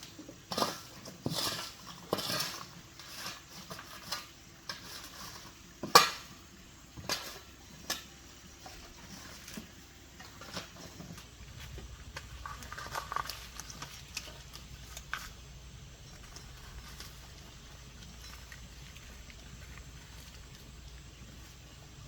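Irregular clinks and knocks of small hard objects being handled, the loudest about six seconds in, then a faint steady low hum.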